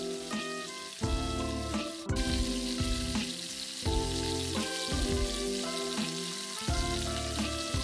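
Background music with a melody and bass line over the steady sizzle of flour-battered tempeh frying in oil in a wok.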